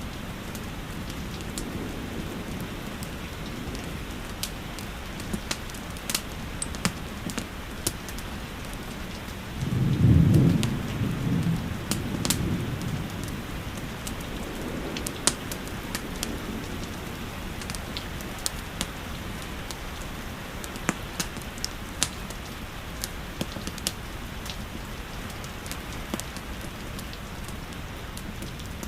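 Steady hiss of falling rain, with the sharp pops and crackles of a wood fire scattered throughout. A low rumble swells about ten seconds in and fades within a couple of seconds.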